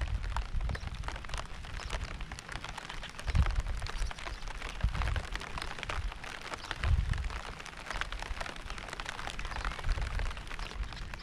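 Rain falling steadily, with many separate drops ticking through the hiss. Low rumbles swell up every second or two.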